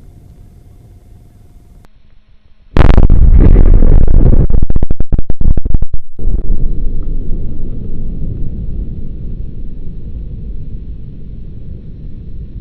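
A gas cylinder heated in a tyre-and-gasoline fire bursts with a sudden, deafening blast about three seconds in, overloading the microphone. A loud rumble follows and slowly dies away. Before the blast there is only a low rumble.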